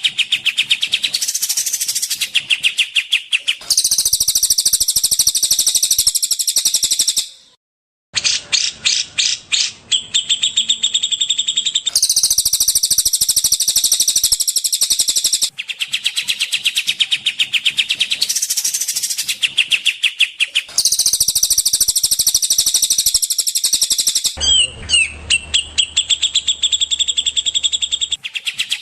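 Songbirds singing rapid, rattling trills and chattering phrases in a spliced recording of cage-bird song for training birds. The segments start and stop abruptly, with a brief silent gap about seven seconds in.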